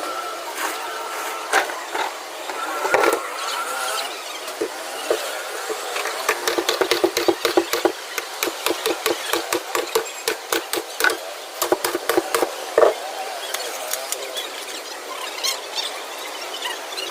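Hand tools knocking and clicking on the metal parts of a fridge being dismantled, with scattered knocks at first and a quick run of sharp taps, several a second, through the middle.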